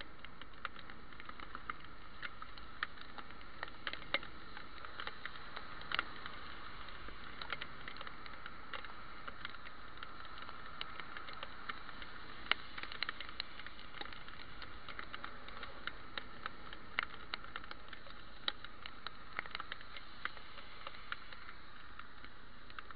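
Raindrops ticking irregularly on a head-mounted camera's housing, over a steady muffled hiss.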